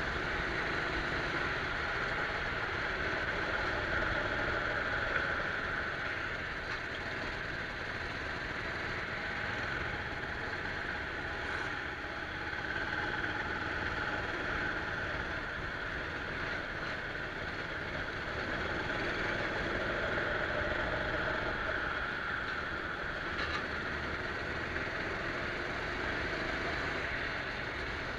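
Go-kart engine running under load, its pitch and loudness rising and falling every few seconds as it speeds up and slows.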